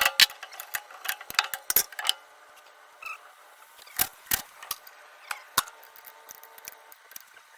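Wrenches working on a turbocharger housing: irregular sharp metallic clicks and clinks. A quick run of them comes in the first two seconds, then scattered single clicks.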